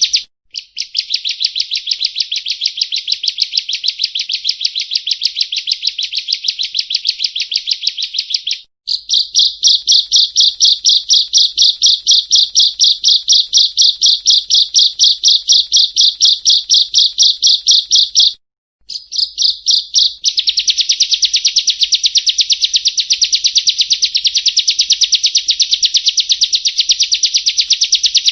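Prinia (perenjak) calling: a fast, even run of sharp, high repeated notes, several a second, in long stretches broken by a few brief gaps.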